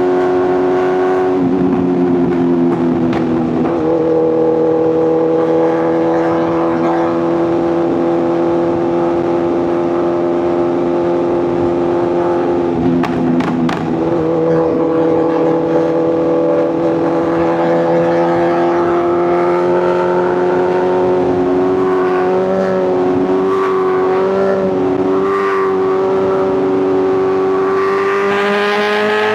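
Sportbike inline-four engine and exhaust running at steady highway speed, the pitch nearly level with a slight dip about two seconds in and a rise toward the end as the throttle opens.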